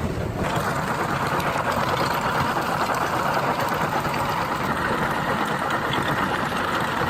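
Heavy machinery running steadily, an engine-driven mechanical noise that sets in about half a second in and holds evenly.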